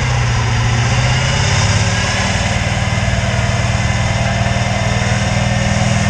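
Turbo-diesel pickup truck engine running steadily at a low, even pitch, which steps up slightly about two seconds in.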